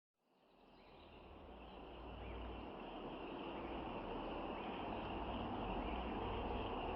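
Outdoor ambience fading in: insects chirring continuously over a low rumble.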